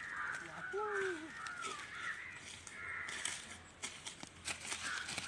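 Bird calls: a series of short calls, with two lower arching notes about a second in, over faint outdoor background noise.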